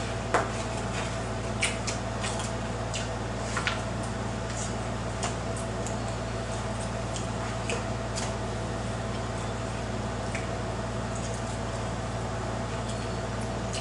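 Eating sounds: scattered light clicks and taps of utensils and food containers, most of them in the first five seconds, over a steady low hum.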